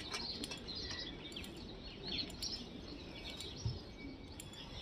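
Small birds chirping in short, scattered calls over steady outdoor background noise, with a single soft thump nearly four seconds in.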